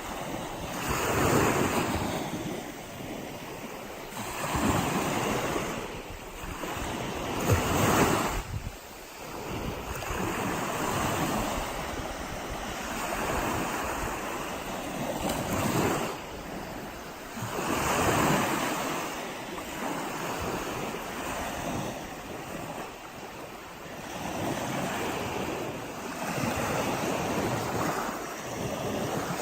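Waves breaking and washing up a sandy beach at the water's edge, the surf swelling and ebbing every few seconds, with the strongest surges about a second in, around eight seconds in, and again around eighteen seconds.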